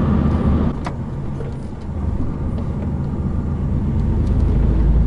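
Truck engine running while driving, heard from inside the cab, with a click just under a second in. The engine sound eases briefly, then builds steadily louder as it pulls.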